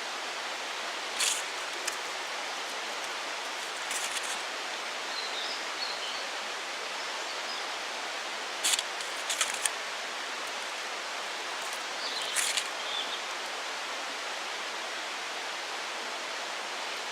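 Campfire crackling, with a few sharp pops over a steady hiss.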